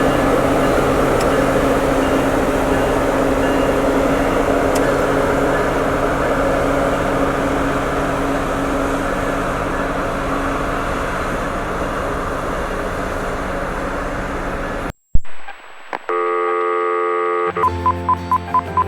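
Train running by with a steady engine hum that slowly fades. About fifteen seconds in it cuts off abruptly, followed by a held electronic tone and a quick run of beeps like telephone dialing.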